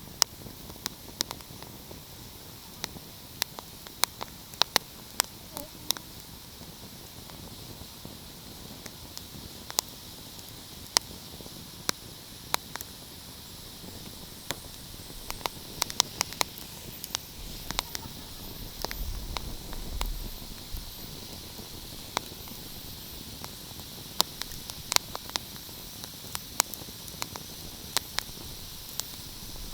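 Wood fire crackling: a steady soft hiss with many sharp, irregular pops, some in quick clusters. A brief low rumble comes about two-thirds of the way through.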